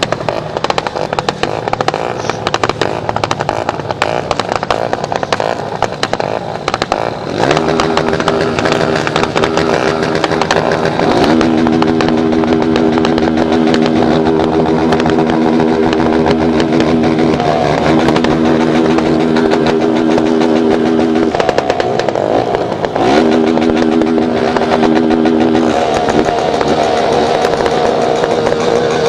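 Motorcycle engine running while riding. It holds a steady note from about a quarter of the way in, with a few brief breaks where the pitch dips and changes, as with throttle or gear changes, and a higher note near the end.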